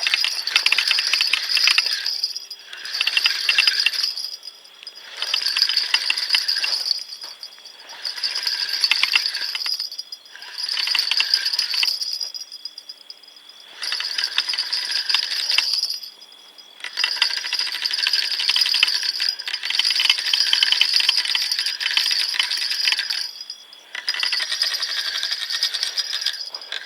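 A singing insect trilling loudly and high-pitched, in bursts of about two seconds with short pauses between, over and over.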